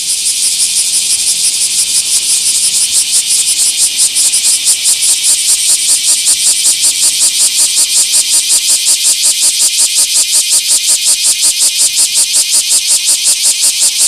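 A bear cicada (Cryptotympana facialis) singing close by: a loud, high, harsh buzz pulsing at about five beats a second.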